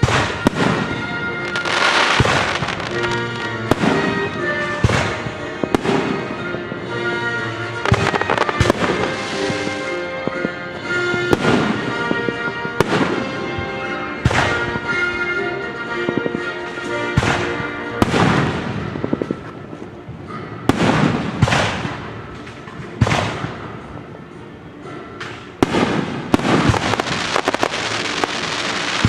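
Aerial fireworks shells bursting one after another, about every second or two, over orchestral music. Near the end the bursts give way to a dense crackle of many small reports.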